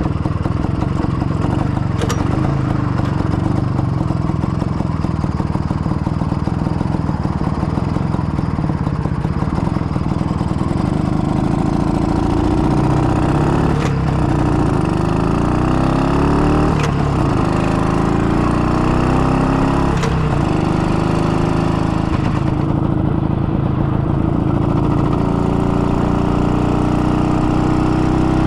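IZh 49 motorcycle's two-stroke single-cylinder engine running on the road. From about halfway its pitch repeatedly rises and drops as the bike accelerates and changes gear. The engine is freshly rebuilt, with a rebored cylinder and 75 mm piston, and is being run in.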